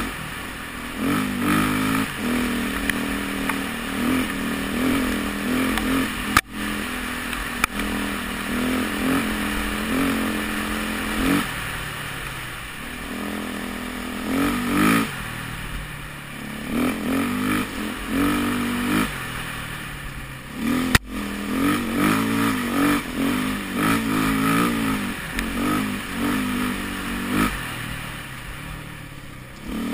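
KTM 450 EXC-R's four-stroke single-cylinder engine revving up and backing off again and again as the dirt bike is ridden hard along a trail, heard from a helmet camera. Three sharp knocks cut through, two close together about six and eight seconds in and one about two-thirds of the way through.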